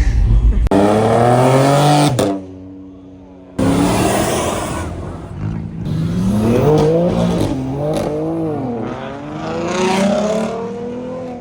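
Car engine revving hard: its pitch climbs, drops back to a quieter steady note for about a second, then swings up and down repeatedly as it is revved again and again.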